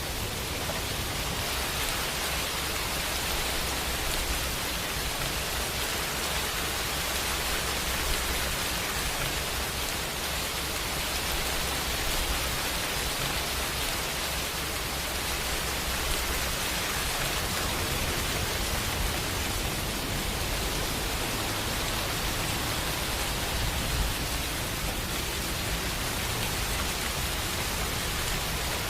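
Steady rain falling as an even hiss, with a couple of single louder drop ticks.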